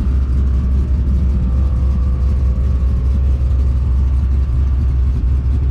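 A vehicle's engine running steadily, a continuous low rumble with a faint steady hum above it.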